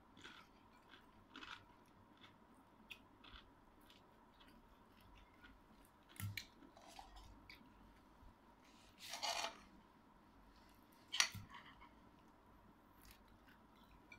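Quiet chewing and crunching of dried fish (tuyo and danggit) and rice eaten by hand, with many small scattered clicks and three louder sharp crunches or knocks about six, nine and eleven seconds in.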